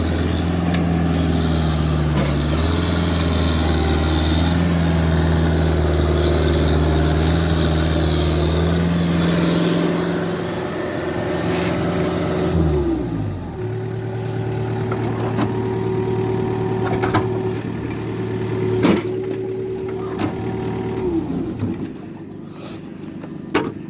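An engine running at a steady speed. About halfway through its note falls away and settles into a different steady note, which drops off again a few seconds before the end. A few sharp knocks sound in the second half.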